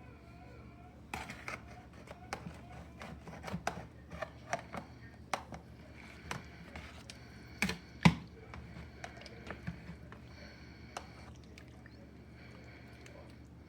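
Serving utensil clinking, knocking and scraping against a baking dish and plate while gumbo is dished up: irregular clicks, with the loudest knock about eight seconds in, then settling after about eleven seconds.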